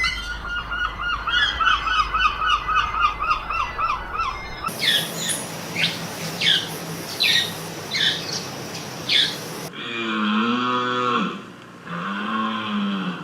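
A run of animal calls joined by hard cuts: fast, high chirping birds, then repeated short downward-sweeping bird calls about every second, then a few drawn-out, rising-and-falling calls from a large animal, like cattle lowing.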